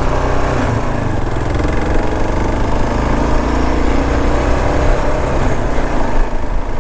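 Kawasaki KLR650 dual-sport motorcycle's single-cylinder engine running as the bike rides slowly along a rough dirt road, its pitch shifting a little with the throttle.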